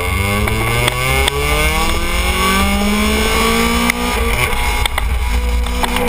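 Honda Civic EG8's D15 single-cam four-cylinder engine pulling hard under acceleration, its pitch climbing steadily for about four seconds, then holding steady. A constant low rumble of wind buffets the side-mounted camera.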